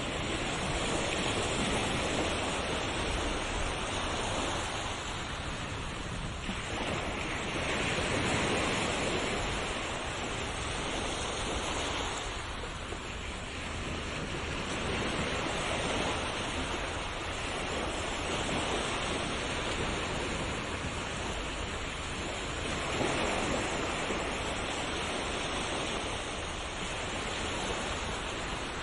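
Ocean waves surging and washing on a shore: a steady rush of surf that swells and ebbs every five to six seconds.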